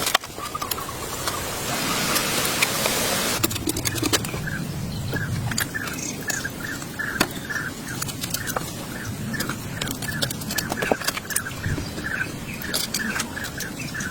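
A bird calling with a rapid run of short repeated notes, about two or three a second, from about four seconds in. Around it are scattered clicks and knocks, and a noisy rustle in the first few seconds.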